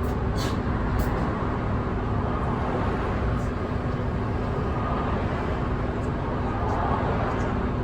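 Cabin running sound of a Nissan Diesel Space Runner city bus: a steady diesel engine hum with road noise, and a couple of faint clicks in the first second.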